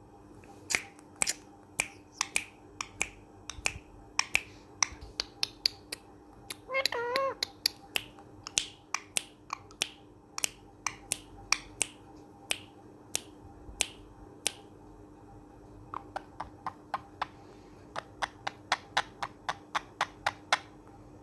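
Parrot making kissing sounds: a long run of sharp smacking clicks, about two a second, with one short warbling call about seven seconds in.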